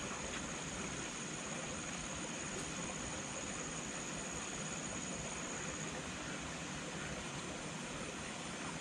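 Tropical rainforest ambience: a steady, even rush of noise with a high, steady insect drone that stops about six seconds in.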